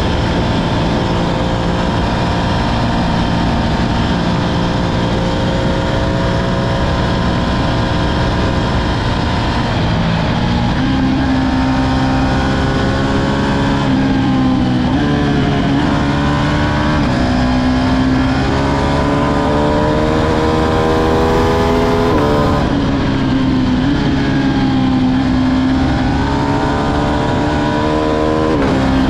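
Ducati Streetfighter V2's 955 cc Superquadro V-twin running at a steady pitch for about ten seconds. The engine then accelerates hard: the revs climb in three pulls, each cut by a quick drop at an upshift.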